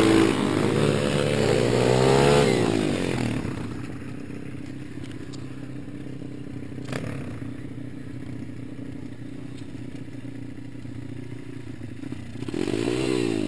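Small single-cylinder pit bike engine revving high, then dropping to a quieter steady running note about three seconds in, with one sharp click midway and the revs rising and falling again near the end.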